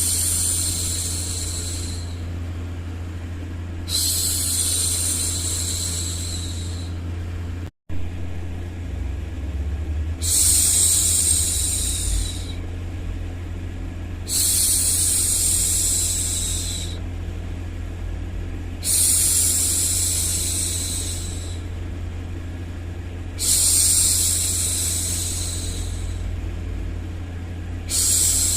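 A woman hushing with long 'shhh' sounds, each about two seconds, repeated roughly every four and a half seconds over a steady low rumble of background noise. The sound cuts out for an instant about eight seconds in.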